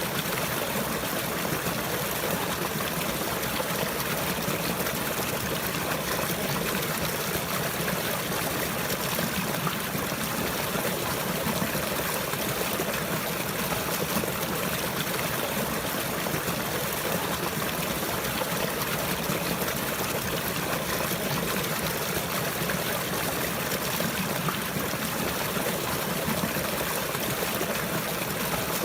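Water flowing and trickling in a steady, unbroken stream.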